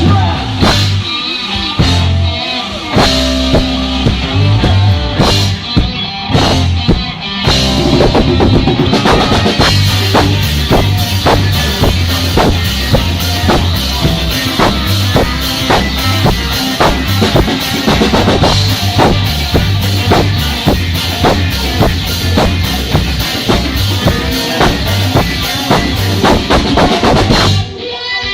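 Loud rock music with a busy drum kit, bass drum and fast hits driving it; the playing drops off briefly near the end.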